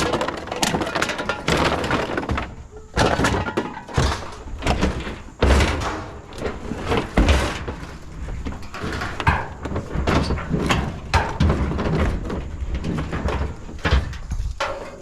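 Scrap metal being thrown into a truck bed: repeated, irregular clanks and thuds of metal landing on metal.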